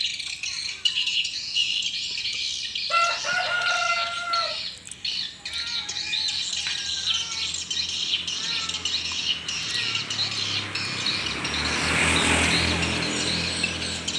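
Swiftlets twittering: a dense, continuous chatter of high chirps with shorter chirping calls. About eleven seconds in, a broad rushing noise with a low hum swells and fades.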